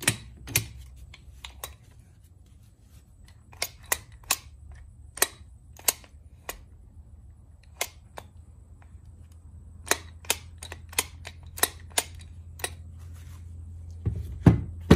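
Irregular sharp metallic clicks and taps of hand tools and parts being handled while working on a car starter motor, over a steady low hum.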